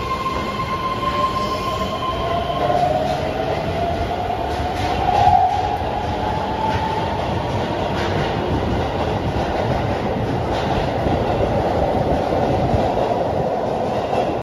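Green Keihan electric commuter train pulling out of an underground station. Its motor whine rises in pitch over the first several seconds as it gathers speed, over a steady rumble of wheels on rail with faint clicks over the joints.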